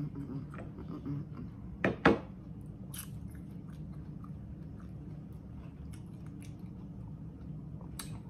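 A person chewing mouthfuls of watermelon, small seeds and all, with soft wet mouth clicks. Two loud sharp clicks come close together about two seconds in.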